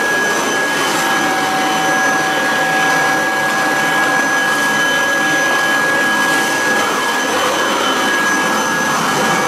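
1986 Kirby Heritage 2 vacuum cleaner running steadily: a constant rush of air with a high, even motor whine.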